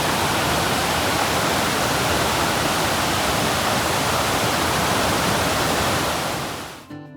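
Waterfall: a loud, steady rush of falling water that cuts off abruptly near the end, where music comes in.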